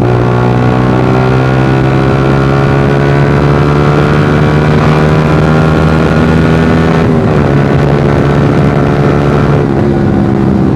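Suzuki GSX-R150's single-cylinder engine running loud through a Proliner racing exhaust while riding at speed. The pitch eases down gradually, with a marked dip about seven seconds in and another near ten seconds.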